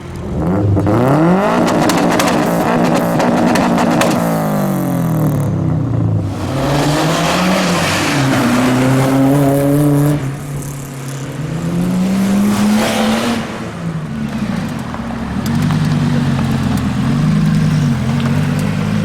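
Sports car engines revving hard and pulling away, the pitch climbing and dropping several times as they rev and change gear.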